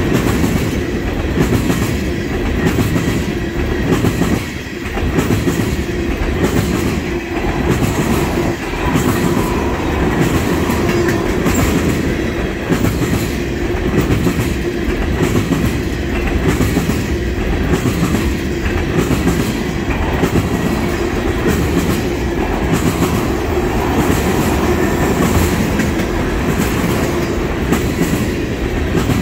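Railroad tank cars of a freight train rolling past: a steady rumble of steel wheels on rail with a repeating clickety-clack as the wheels cross rail joints.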